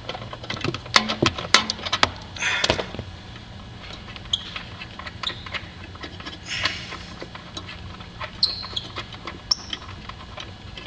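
Metal tool clicks and clatter as a 13 mm bolt holding a car's Sirius satellite radio decoder is worked loose, fastest in the first two seconds, with a short scraping rustle about two seconds in and scattered light ticks after.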